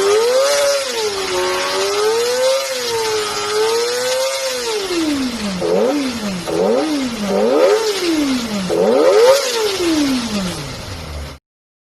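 Kawasaki ZX-25R's 250 cc inline-four engine revving high: slow rising and falling sweeps, then four quick sharp blips of the throttle and a long fall back down, before the sound cuts off suddenly near the end.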